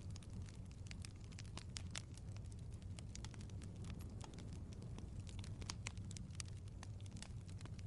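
Wood fire crackling: irregular sharp pops and snaps over a low steady hum.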